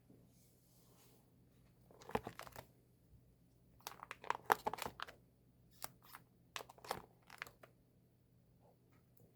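Album packaging being handled and opened, heard as three short spells of crinkling and tearing: the loudest about four to five seconds in, a shorter one about two seconds in, and scattered crackles later.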